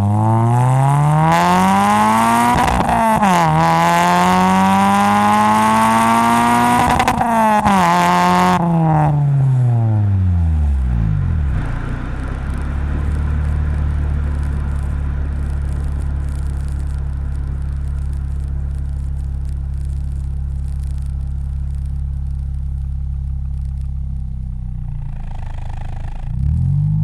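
2003 Honda Civic Si (EP3) four-cylinder through a Magnaflow cat-back exhaust with a test pipe in place of the catalytic converter, accelerating hard with a gear change about three seconds in, revs climbing again, then falling as it backs off. It then runs steadily at low revs until, near the end, the revs dip and start climbing again.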